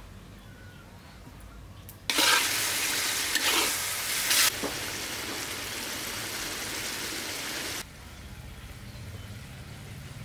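Chicken gizzards frying and sizzling in a hot wok, with a few knocks from stirring. The sizzle starts suddenly about two seconds in, is loudest for the first couple of seconds, and drops away about eight seconds in.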